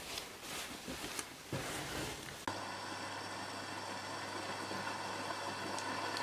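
A few seconds of light rustling and clicks, then a steady machine hum starts suddenly and runs on evenly.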